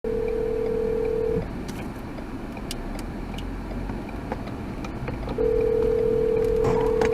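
A steady, single-pitched electronic beep held for about a second and a half, then sounding again for about two seconds near the end, over a low road rumble.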